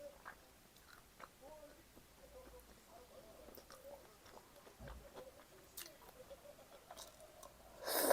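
A person chewing food close to the microphone, with small wet clicks and soft crunches. A brief, louder burst of noise comes near the end.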